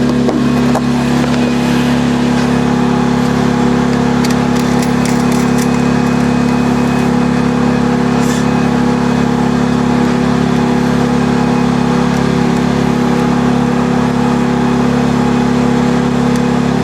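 An engine running steadily at a constant speed, holding an even hum throughout, with a few light clicks over it.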